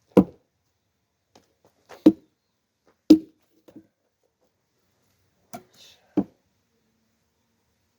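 Axe striking a firewood log again and again: four sharp wooden knocks, irregularly spaced, with a lighter knock just before the last.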